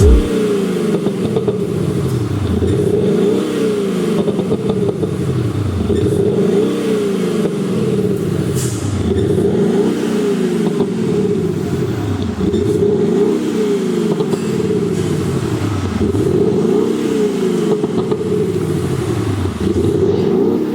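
Mercedes GLE 400d diesel with an Automotive 7.0 active sound exhaust system, its actuators playing a synthesized big-engine exhaust note. It is revved up and let fall back repeatedly, about every three seconds.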